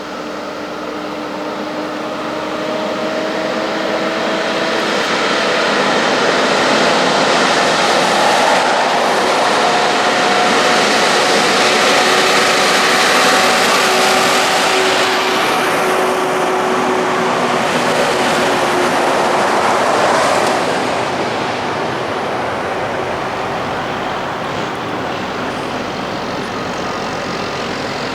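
A heavy truck's diesel engine and tyres passing on the highway. The steady engine note and road noise grow louder over the first several seconds, hold, then ease off after about twenty seconds.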